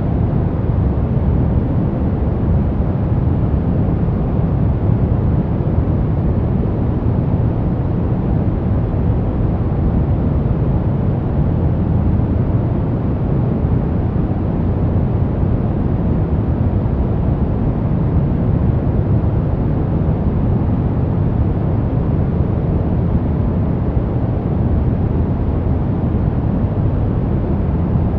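Continuous sleep noise for babies, an even, unchanging hiss-rumble with its weight in the low end, deep rather than bright, more like brown noise than flat white noise.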